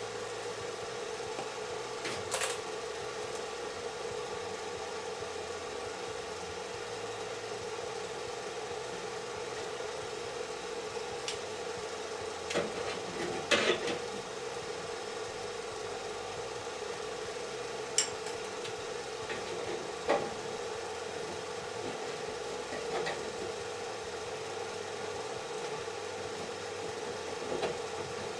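A steady machine hum with a few scattered knocks and clicks, the loudest cluster about halfway through.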